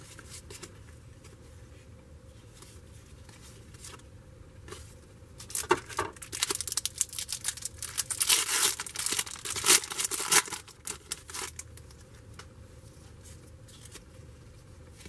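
A trading-card pack wrapper being torn open and crinkled. The rustling tearing runs in a burst of about six seconds, starting about five seconds in, with quiet handling before and after.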